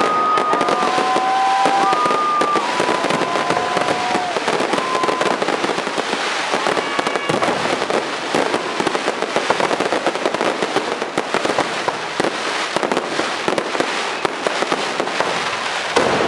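Aerial fireworks display: a dense, continuous crackle of many small rapid pops. Several overlapping steady whistles sound in the first four seconds.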